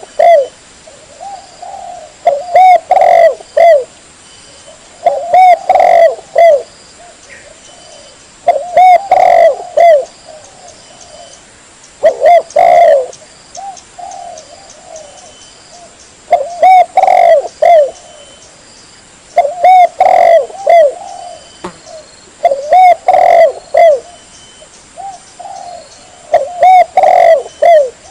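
Spotted dove cooing loudly, a phrase of several short arched coos repeated about every three and a half seconds, about eight times. It is a recorded lure call used to draw in wild spotted doves.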